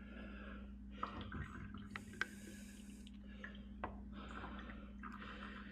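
Lucas diesel anti-gel additive being poured from its cap into a fuel container: faint liquid trickling in several short pours, with a few light clicks.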